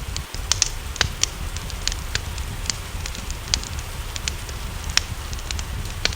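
Wood fire crackling, with irregular sharp pops and snaps over a steady low rumble. Two of the pops, about a second in and near the five-second mark, are louder than the rest.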